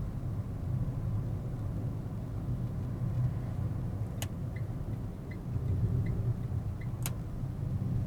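A car driving, a steady low rumble of engine and road noise. Sharp clicks come about four and seven seconds in, with a few faint ticks between them.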